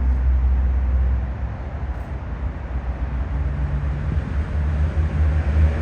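Steady low rumble of road traffic, with a passing vehicle's engine hum showing faintly about three seconds in.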